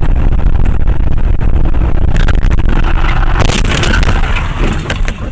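A car crash heard from inside the car: loud rumbling and scraping with several sharp bangs and clatters about two, three and a half and four and a half seconds in, easing off near the end.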